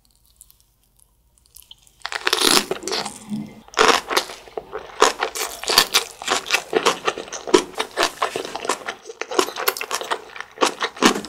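Fresh napa cabbage kimchi (geotjeori) being chewed, crunching. After about two seconds of near silence come many quick, irregular crunches that keep going.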